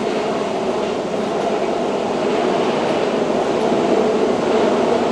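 Keihan electric train running with a steady rumble and hiss that grows slowly louder as it approaches.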